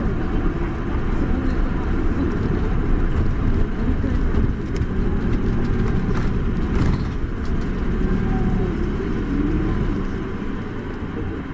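Isuzu Erga city bus heard from inside the cabin while under way: a steady low rumble of the engine and road, with a few short clicks or rattles in the middle. The sound eases a little near the end.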